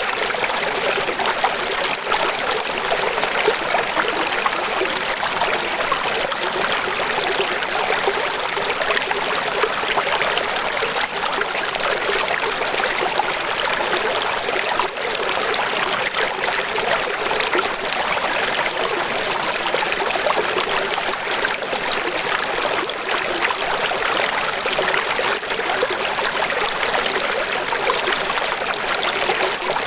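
Water rushing and splashing steadily, an even hiss with little low rumble.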